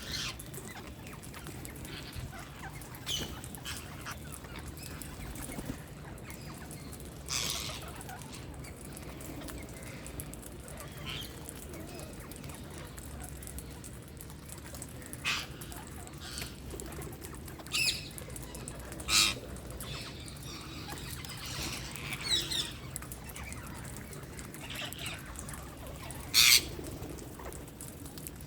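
Wild parakeets squawking: short, sharp calls at irregular intervals, a few much louder than the rest, over a steady low hum.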